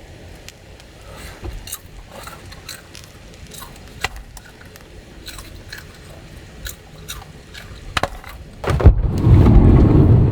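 Small clicks and scrapes of things being handled, over a low background. Near the end, a sudden loud rush of wind noise comes in.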